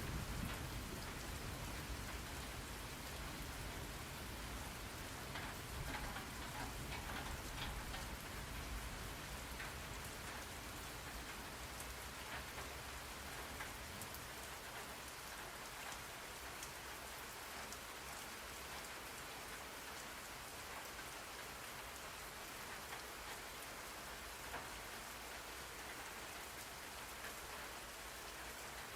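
Steady rain falling, an even hiss with scattered drop ticks. A low thunder rumble fades away over the first several seconds.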